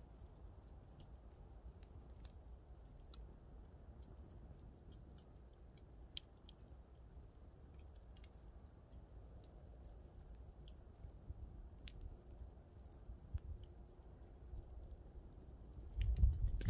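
Wood campfire crackling: scattered sharp pops and snaps over a low, steady rumble. Near the end a much louder low rumble comes in.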